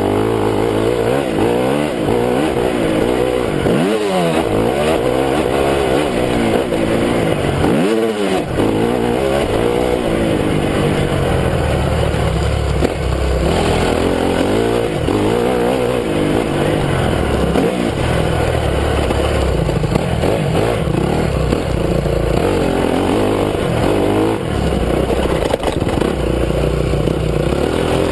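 Honda CRF250 single-cylinder four-stroke motocross engine being ridden hard, its pitch repeatedly rising and falling with throttle and gear changes. The throttle is briefly closed about four seconds in and again about eight seconds in.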